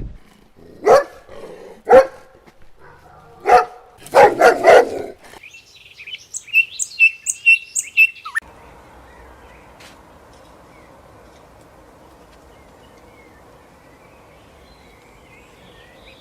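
Several short, loud animal calls in the first five seconds, the last few coming close together, then a rapid run of high, evenly spaced chirps for about three seconds, which stops suddenly and leaves only a faint steady background hiss.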